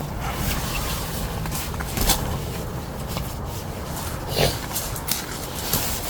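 Handling noises from pitching a shelter tent: a few scattered knocks and clicks over a steady low rumbling noise.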